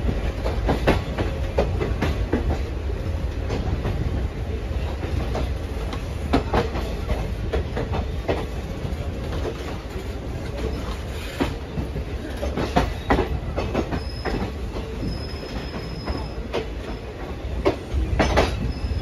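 Passenger express train running, heard from on board a coach: a steady low rumble of wheels on track with frequent irregular clanks as the wheels pass over rail joints and points. A faint thin squeal comes and goes at times.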